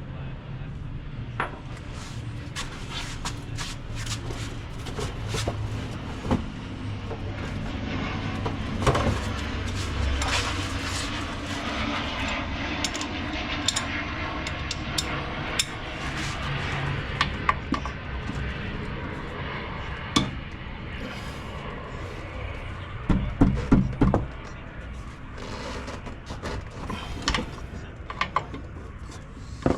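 Hand tools and metal parts at work on a truck's suspension: scattered clicks and clanks over a steady background noise, with a quick run of louder knocks about two-thirds of the way through.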